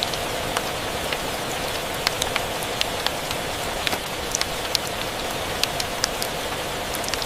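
Steady rain with a crackling wood fire: a constant rushing hiss, with irregular sharp pops and ticks scattered through it, several a second.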